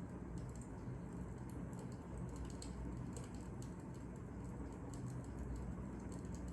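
Fire crackling: small irregular pops and snaps over a low, steady rumble.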